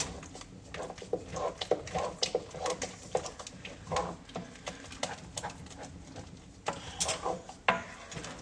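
A spoon stirring butter into thick custard in a saucepan, with irregular clicks and knocks against the pan.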